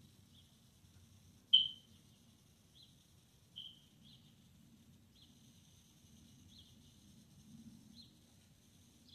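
Small birds chirping, short high chirps at irregular intervals, over a faint steady low rumble of street traffic. One chirp about a second and a half in is much louder and sharper than the rest.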